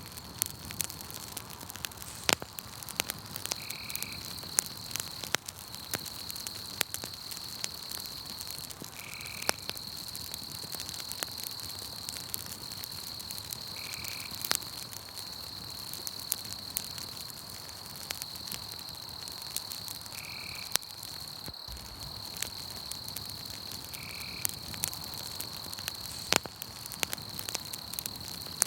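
Campfire crackling and popping in sharp snaps, over a steady high insect trill of night crickets. A short call repeats every four to six seconds.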